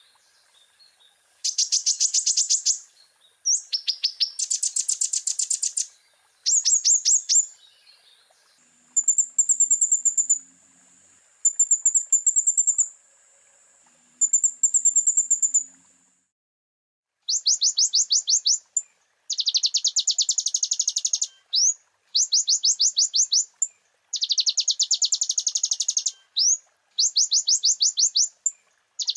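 A sunbird known in Indonesia as the kolibri ninja (konin) singing in full voice, a 'full isian' bird whose song is loaded with phrases copied from other species. It gives repeated rapid high trills of one to two seconds each with short pauses between them, and around the middle holds a thin high steady note under a few shorter chirping phrases.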